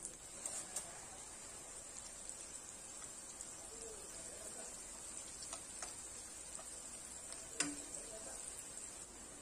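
Battered cauliflower florets deep-frying in hot oil, a steady sizzle, with a few light clicks of chopsticks against the pan, the loudest about seven and a half seconds in.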